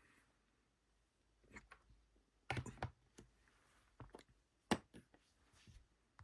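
Light clicks and taps of small parts being handled while building a model: a short cluster of clicks about two and a half seconds in and a single sharp click near five seconds.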